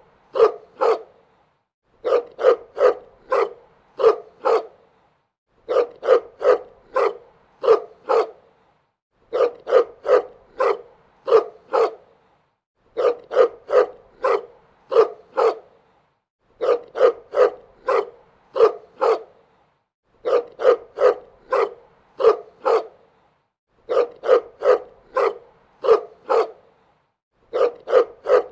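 Dog barking in quick runs of four or five short, sharp barks. The runs repeat evenly about every three and a half seconds.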